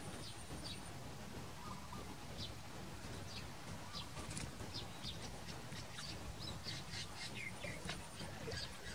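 Small birds chirping: short, high, downward-sweeping chirps, scattered at first and coming more often in the second half, over a steady low background rumble.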